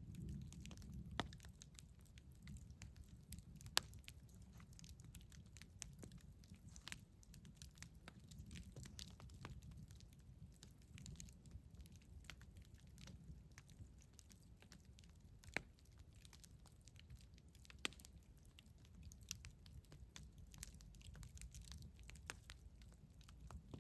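Wood fire crackling: irregular sharp pops and snaps over a low, steady rumble, with a louder pop about four seconds in and a few more later on.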